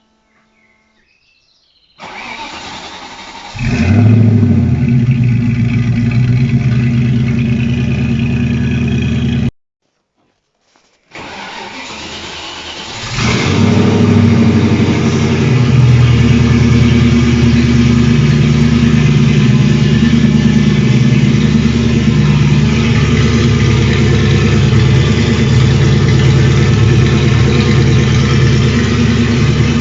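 TVR Chimaera 450's V8 engine started twice. Each time the starter cranks for a second or so, then the engine catches with a loud burst of revs and settles into a steady, rumbling idle. The sound cuts out completely for about a second and a half between the two start-ups.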